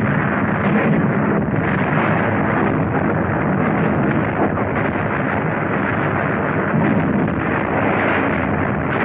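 Continuous din of battle: dense artillery fire and shell explosions running together into one unbroken noise.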